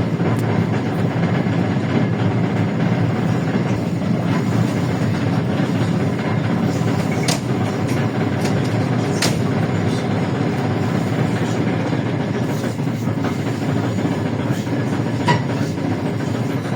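Inside a LiAZ-677M bus on the move: steady drone of its V8 petrol engine and road rumble, with body rattling and a couple of sharp knocks partway through.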